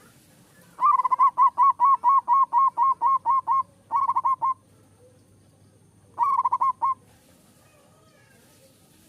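Zebra dove (perkutut) cooing: a run of about a dozen quick, even notes, then a short faster burst, and after a pause of about two seconds another short burst.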